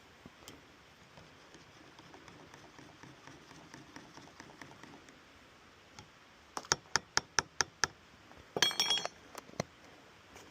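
A quick run of about seven sharp clicks, then a brief metallic jingle with a ringing tone, and a last click.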